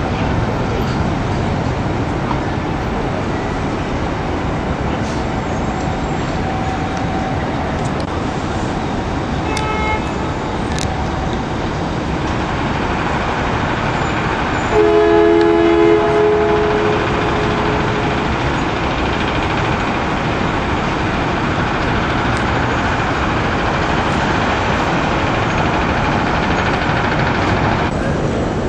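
Train running with a steady rumble and rushing noise; about halfway through, a train horn sounds once in a two-note chord for a second or two.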